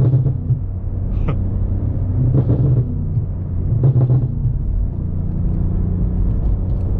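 BMW M5 Competition's twin-turbo V8 running at low speed with a steady exhaust rumble, broken by several short bursts of exhaust burbles.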